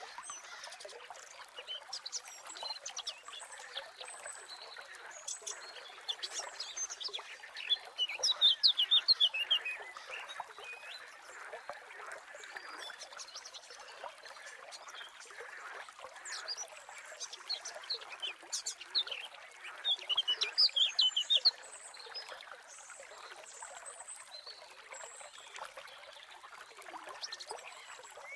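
Wild birds chirping and singing over a steady background of trickling water. The loudest parts are two bursts of quick repeated falling notes, one about eight seconds in and one about twenty seconds in.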